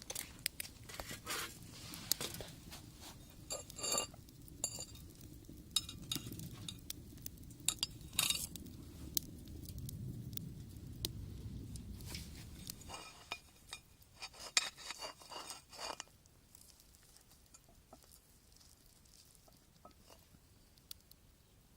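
Scattered light clinks and taps of tableware, some ringing briefly, over a low rumble that fades out about two-thirds of the way through.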